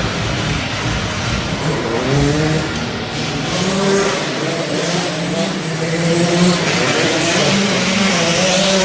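Small youth dirt-bike engines revving up and down as they race, several at once, their pitch rising and falling again and again over a steady roar.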